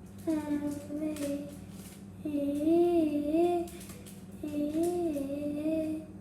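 A child singing a tune in three short phrases, the pitch swooping up and down, over a steady low hum.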